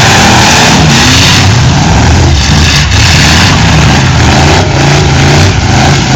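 Demolition derby cars' engines revving hard, pitch rising and falling as they accelerate and back off, very loud throughout.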